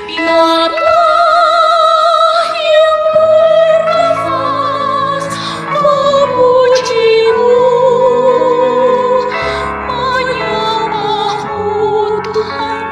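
Church choir singing a sacred piece in parts. A high soprano line carries long held notes with wide vibrato over sustained lower voices.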